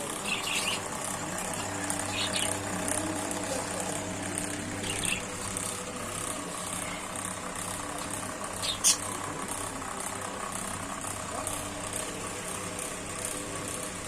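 Parrots giving a few short, high-pitched squawks, the sharpest about nine seconds in, over a steady mechanical hum.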